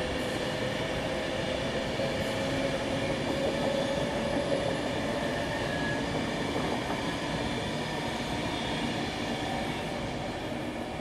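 Class 390 Pendolino electric train running past on the main line: a steady rolling rumble with several level whining tones over it, easing off slightly near the end.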